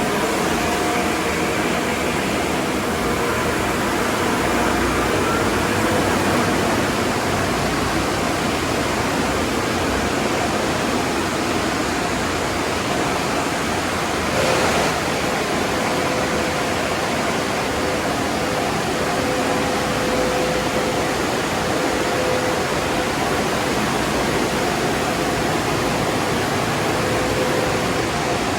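Automatic car wash tunnel equipment running: a steady rushing hiss of water spray and blown air, with a faint steady hum. A brief louder burst comes about halfway through.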